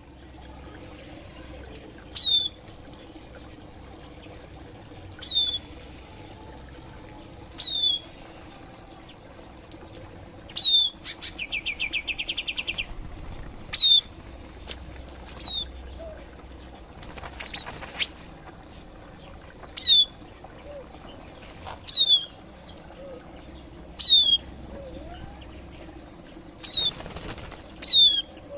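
Songbirds in an aviary calling: short high notes sweeping downward, repeated every two to three seconds, with a rapid trill about eleven seconds in. Two bursts of wing flutter come around the middle and near the end.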